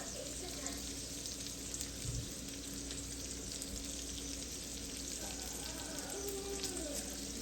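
Food frying in a pan: a steady sizzle with fine crackles.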